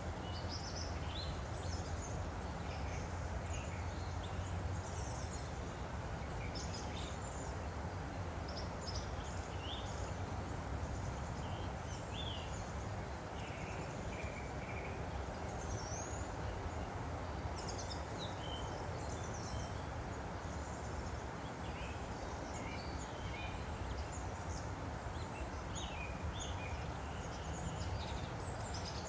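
Woodland stream flowing steadily, with several small songbirds chirping and trilling over it.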